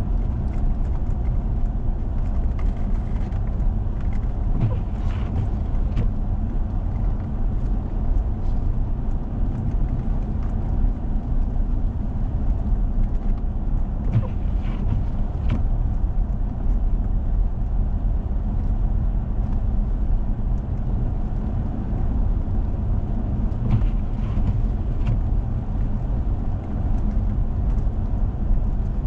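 A four-wheel-drive vehicle driving on a snow-covered road: a steady low rumble of engine and tyres, with a few faint clicks and knocks here and there.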